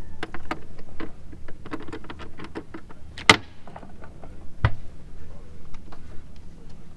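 Knocks and clicks from an engine-compartment hatch on a sailing catamaran being handled, with one sharp click about three seconds in and a heavier thump over a second later, over a low steady hum.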